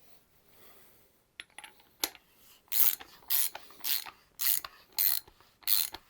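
A ratchet wrench being worked on the motorcycle's front fork, with a couple of clicks and then six regular ratcheting strokes about every 0.6 s.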